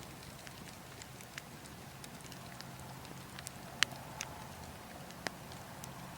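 Burning logs crackling, with scattered sharp pops, the loudest a little over halfway through, over a steady low rush of wind.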